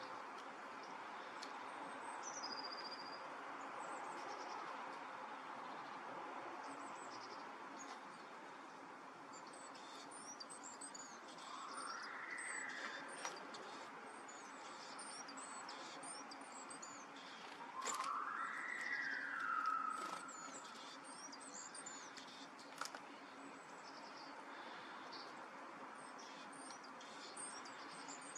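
Small birds chirping outdoors, many short high chirps over a steady background hum. Twice, near the middle and about two-thirds through, a louder sound rises in pitch and falls again.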